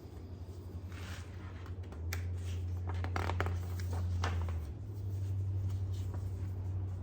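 Paper rustling and crinkling in short bursts as the pages of a picture book are turned and handled, over a steady low hum.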